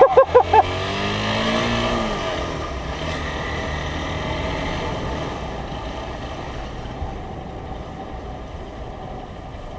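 Motorcycle engine pulling away, its pitch climbing for about two seconds, then running steadily at speed under a steady rush of wind on the helmet microphone, the whole slowly getting quieter toward the end.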